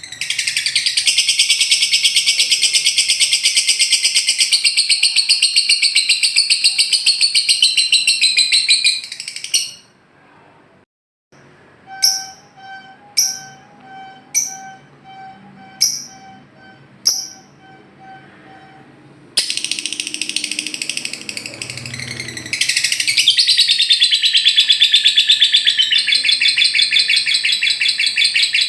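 Lovebird 'ngekek': a long, very rapid, high-pitched trilling chatter. It breaks off about ten seconds in, gives way to five short sharp chirps about a second apart, and then the trill starts again and runs on.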